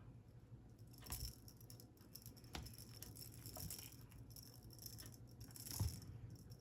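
A rattling cat toy being batted and pounced on by a playing kitten: scattered faint rattles and knocks, with a soft thump about a second in and a louder one near the end.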